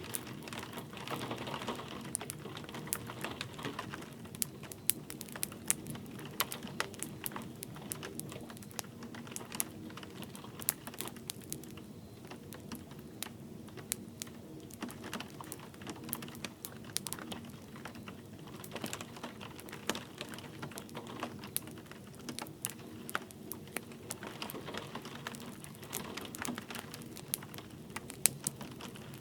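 Wood fire crackling, with many sharp irregular pops and snaps over a soft steady hiss of light rain.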